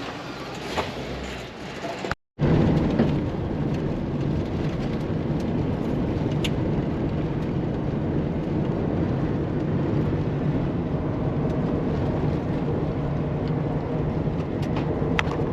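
Vehicle driving at speed: steady engine and road rumble. It starts abruptly about two seconds in, after a short gap.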